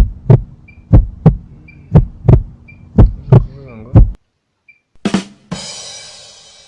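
Heartbeat sound effect: paired low thumps about once a second over a steady low hum, stopping after about four seconds; a short burst and a fading hiss follow near the end.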